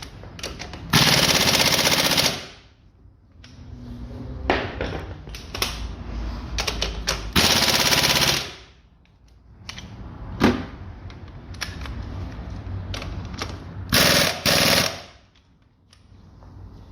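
Cordless impact wrench hammering bolts home on a car engine mount, in three bursts of about one to one and a half seconds each. Between the bursts are scattered clicks and knocks of tool handling.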